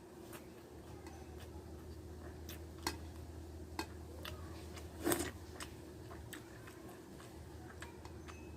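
Close-up eating sounds: scattered small clicks and smacks of chewing and handling food, the loudest about five seconds in, over a faint steady hum.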